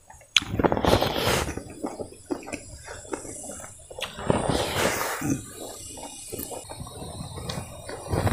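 Close-up chewing of crispy, slightly burnt rice: irregular crunching and crackling, loudest in two stretches, one near the start and one about four seconds in.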